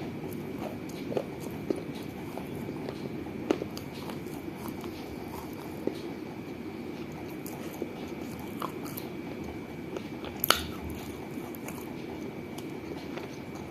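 Biting and chewing pieces of a small fired-clay piggy bank, with sharp cracks every few seconds between quieter grinding. The loudest crack comes about ten seconds in.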